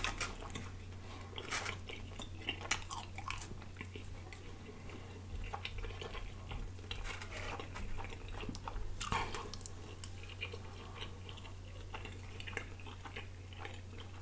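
Close-miked chewing of pita bread and chicken, with wet mouth smacks and lip clicks coming at irregular moments, over a faint low hum.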